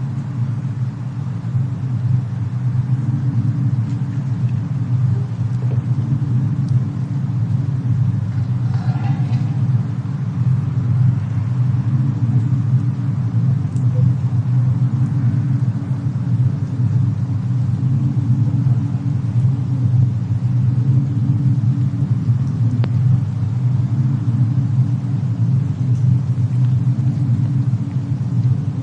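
Winter cabin ambience of a fireplace and a snowstorm: a loud, steady low rumble, with a few faint crackles.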